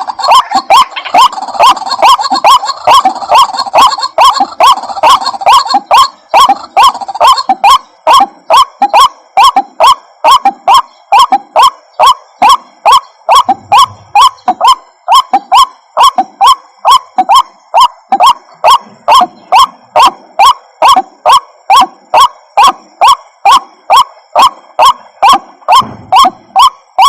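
White-breasted waterhen calling, a loud call repeated evenly about two to three times a second: a lure recording played to draw the birds in. For roughly the first eight seconds the calls overlap into a denser chorus.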